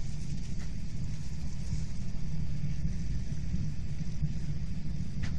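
Steady low rumble of a Hyundai Rotem Intercity+ electric multiple-unit train running at speed, heard from inside the passenger car.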